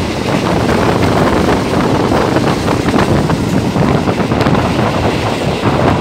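Moving passenger train heard from an open carriage window: a steady loud rumble of the carriage running on the rails, mixed with wind buffeting the microphone.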